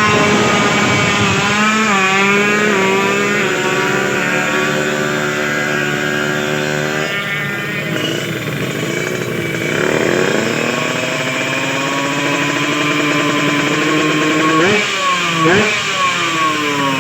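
Drag-race motorcycle engine being revved during tuning: it revs up at the start and holds high revs for a few seconds, drops off about seven seconds in, runs unevenly at lower revs, then gets two sharp throttle blips near the end.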